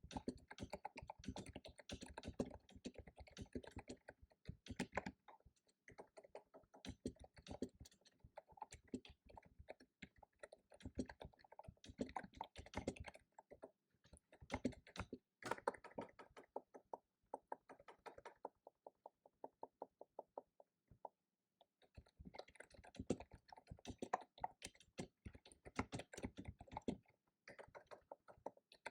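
Fast typing on a computer keyboard in runs of rapid keystrokes. Past the middle comes a stretch of evenly spaced single key taps, then a pause of about a second before quick typing resumes.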